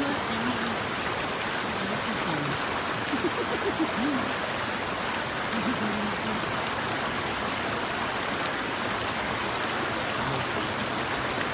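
Stream water flowing and splashing steadily, a constant rushing.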